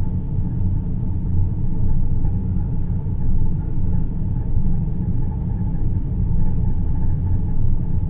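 Produced deep-space sleep ambience: a steady low rumbling drone with a faint, even hum higher up, no music.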